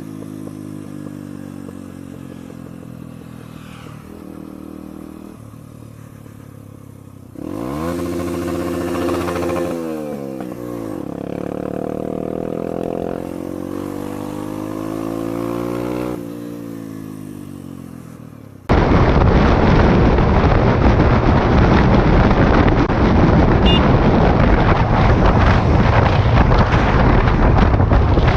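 Motorcycle engine running, then pulling away from about seven seconds in, its pitch climbing and dropping back several times as it shifts up through the gears. Near the end of that it cuts suddenly to loud, steady wind rushing over the microphone of the moving bike.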